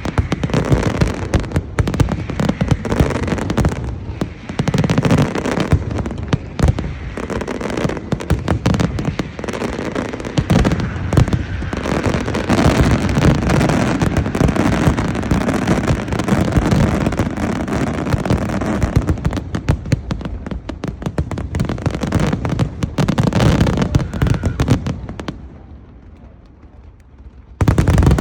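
Fireworks display with a dense, continuous barrage of overlapping bangs and crackles. It thins out and goes much quieter near the end, then loud bangs start again abruptly.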